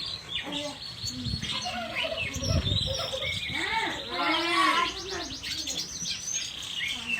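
Songbirds chirping and singing, with many short whistled notes overlapping and a long rapid trill from about two and a half to five seconds in.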